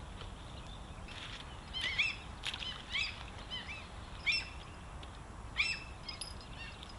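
A small bird calling in short, high chirps, in scattered groups of two or three notes, over a steady low background hiss.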